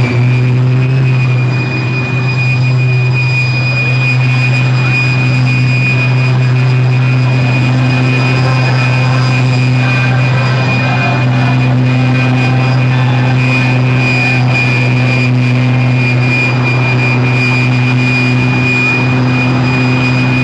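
Pulling tractor's engine running loud and steady, its pitch holding constant.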